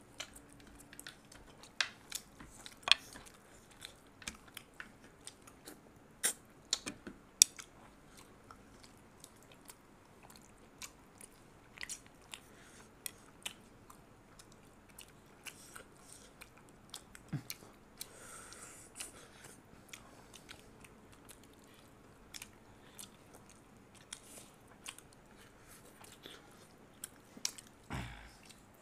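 Close-up chewing and biting of mutton and roti, with irregular wet smacks and sharp clicks of eating by hand; the mutton is tough and hard work for the teeth. A louder low thump comes near the end.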